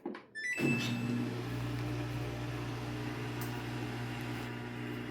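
Samsung AddWash front-load washing machine starting a rinse-and-spin cycle: a button click, a short rising electronic chime, then a steady mechanical hum from the machine.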